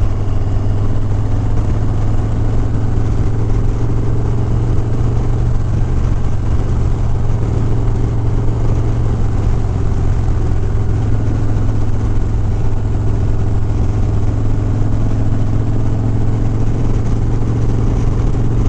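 Harley-Davidson Sport Glide's V-twin engine running at a steady pace while riding, with a constant low hum and road and wind noise.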